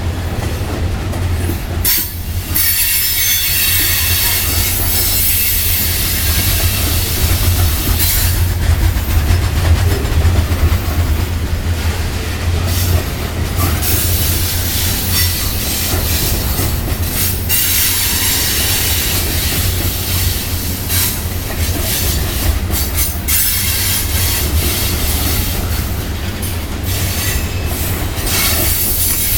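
Long freight train rolling past at moderate speed: a steady low rumble of cars and wheels on the rails, with faint high wheel squeal in the first half.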